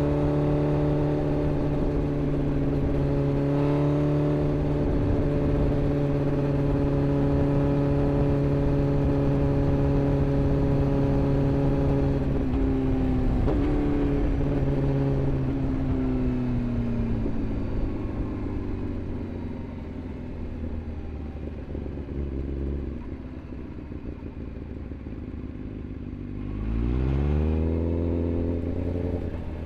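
Sport motorcycle engine holding steady revs, then revs falling away over several seconds as it slows, running lower and quieter for a while, and rising quickly again near the end as it accelerates.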